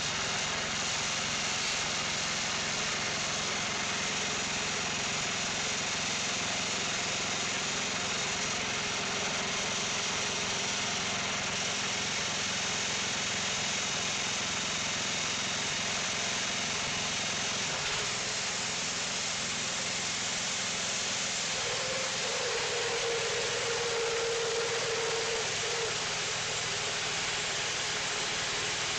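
Wood-Mizer band sawmill running steadily, its engine and blade making an even, continuous noise. A brief steady tone rises above it for a few seconds about two-thirds of the way through.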